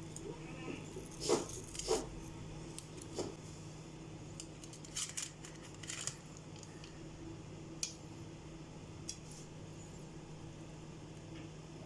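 Crisp, syrup-soaked kunafa being cut into: a scattering of short crunches and clicks as the blade goes through the crisp pastry, the loudest about a second or two in, over a steady low hum.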